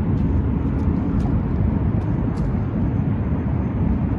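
Steady low rumbling noise with no clear pitch, holding an even level throughout.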